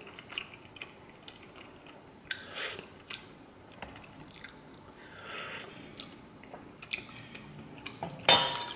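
A person eating noodle tteokbokki: close mouth sounds of chewing the soft rice-cake noodles, with small wet clicks. There is a louder sharp sound near the end.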